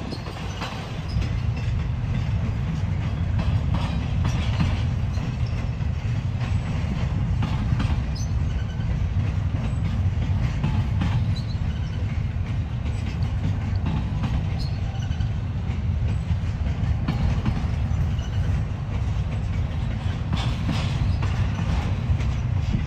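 Freight train cars rolling past with a steady low rumble, steel wheels clacking and knocking irregularly over the rail joints.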